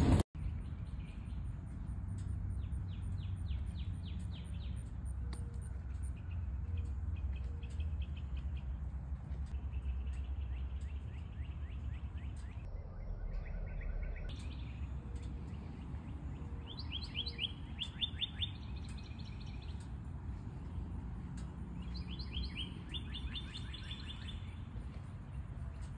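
Songbirds singing: repeated bouts of quick trills made of rapid descending notes, over a steady low rumble.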